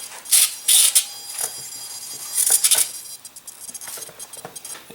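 Three short, high hissy rustles of the small RC model plane being handled, with faint light clicks after them.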